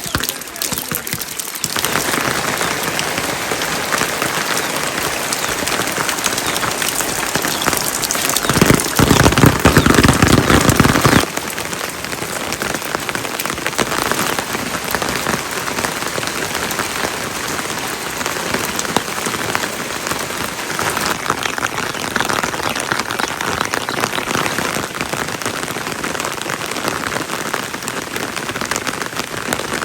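Heavy rain falling steadily, with a louder, deeper stretch of about three seconds a third of the way in.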